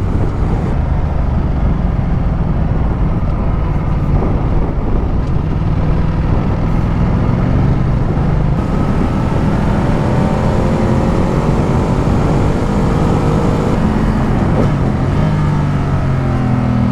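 Ducati Multistrada 1200's V-twin engine pulling steadily under way, with wind noise on the helmet microphone; the engine note climbs slowly, dips about fourteen seconds in, then rises again.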